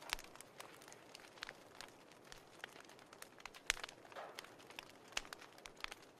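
Fireplace crackling: irregular sharp pops and snaps over a soft hiss, with one louder pop about three and a half seconds in.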